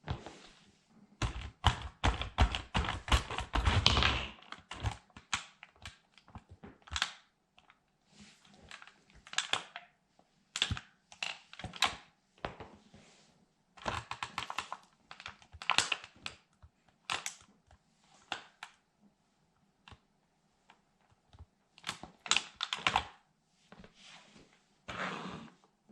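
A plastic toy military truck cracking and snapping as it is trodden on under a sandal, in irregular clusters of sharp clicks and creaks. The crushing is densest, with low thuds from the foot, in the first few seconds, then comes in scattered spells of cracks.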